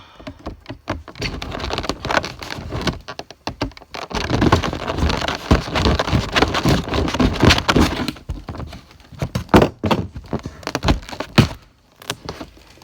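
Hard box packaging being cut open with a knife and worked by hand: a dense run of scraping, rustling and knocks, busiest in the middle, then scattered sharp clicks and taps.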